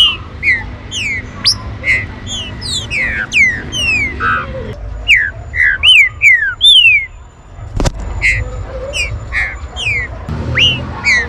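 Green-winged saltators (trinca-ferro) calling: a rapid, overlapping series of short, loud whistled notes that slide downward in pitch, over a low rumble, with a sharp click about eight seconds in.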